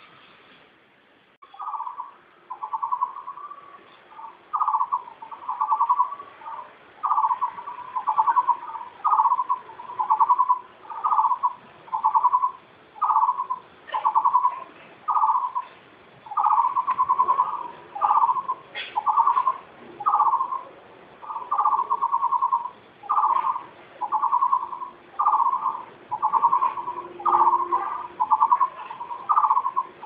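A bird calling a low, pulsed note over and over, about once a second, starting about a second and a half in.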